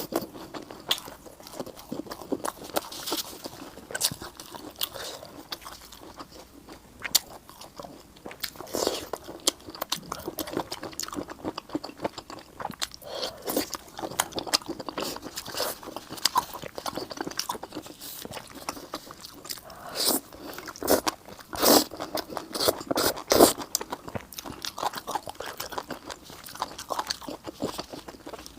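Close-miked eating: a person biting and chewing food, with irregular crunches and smacks throughout and the loudest crunches in a cluster about two-thirds of the way through.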